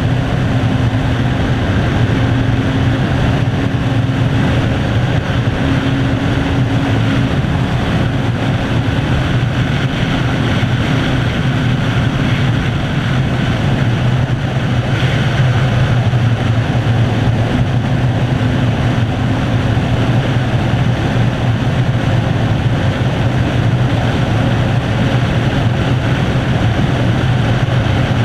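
Kawasaki ZZR600's inline-four engine running steadily at highway cruising speed, its pitch holding constant.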